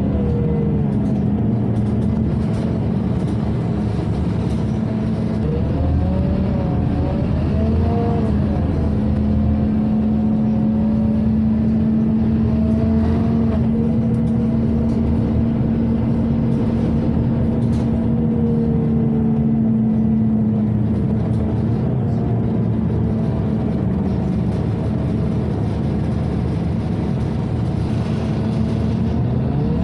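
Scania OmniCity city bus heard from inside the cabin while driving: engine and ventilation running, with the engine note rising and falling as the bus pulls away and changes speed, and holding steady for about ten seconds in the middle.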